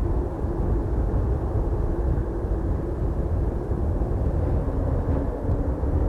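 Aircraft engines rumbling steadily, a loud low roar with a faint held hum over it.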